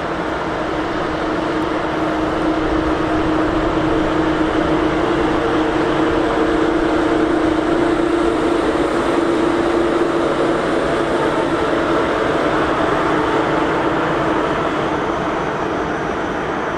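An electric train running through a station: a steady rumble of wheels on rails with a sustained hum, swelling a little toward the middle and easing off near the end.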